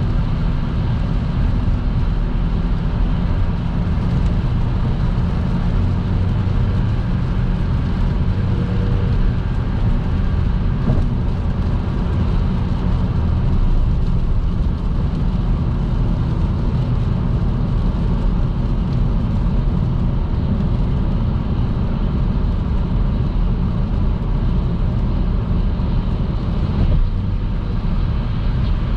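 Car driving at motorway speed on a wet road in the rain: steady tyre and engine noise that holds level throughout.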